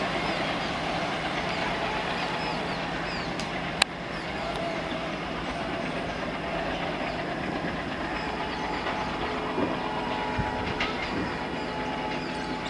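Express passenger train running along the track, a steady rolling rumble with wheels clicking over the rails. One sharp click about four seconds in.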